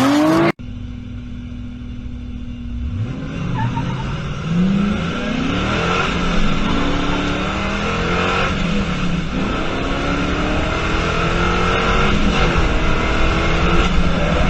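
Drift car engine revving hard, its pitch climbing and dropping again and again. Before it, a brief wavering tone cuts off sharply about half a second in.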